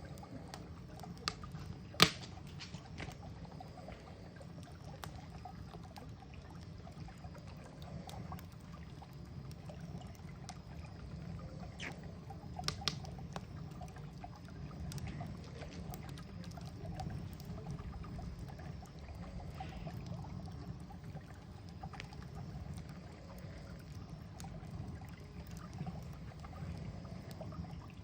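Campfire burning: wood crackling with scattered sharp pops over a low steady rumble, the loudest pop about two seconds in.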